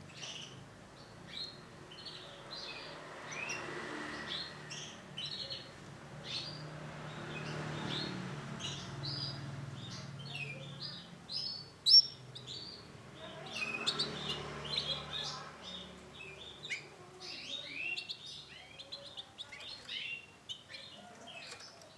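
Canaries chirping: many short, high calls coming in quick succession and overlapping, with one sharp click about twelve seconds in.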